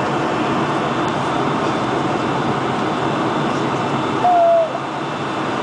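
Steady interior noise of a Boeing 747-400 cabin. About four seconds in, a single short tone sounds, dipping slightly in pitch.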